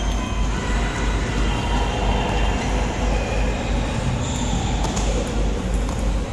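Steady low rumble and rushing noise of a moving vehicle.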